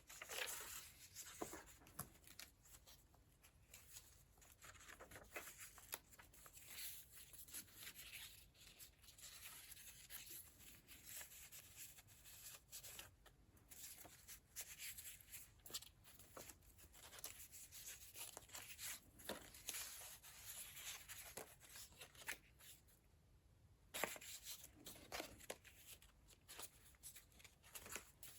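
Faint rustling and soft taps of paper pages being turned and handled in a thick handmade junk journal, in short scattered bursts.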